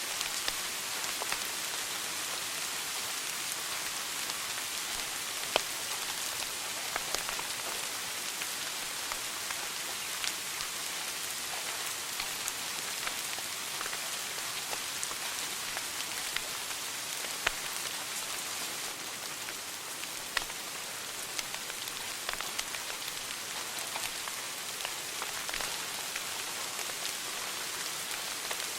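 Fire in a fireplace crackling: a steady hiss with sharp pops at irregular intervals.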